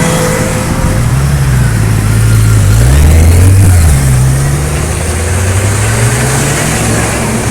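Sport motorcycle engine revving up and down several times, its pitch rising and falling in slow swells.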